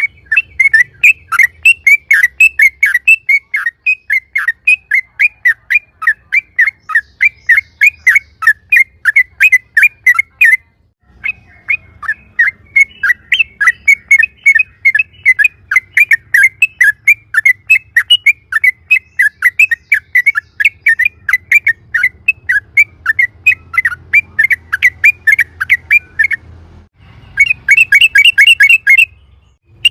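Yellow-vented bulbul (trucukan) singing a long, fast "ropel" run of loud, chirping notes repeated several times a second, with a short break about 11 s in and another near 27 s.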